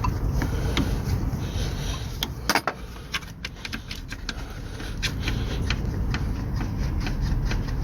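Irregular metallic clicks and clinks of hand tools working on the fuel-line fittings of a diesel engine, over a steady low rumble.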